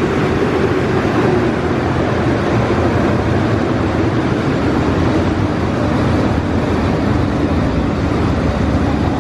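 Automatic tunnel car wash equipment running, a loud steady rushing noise with a faint steady hum underneath.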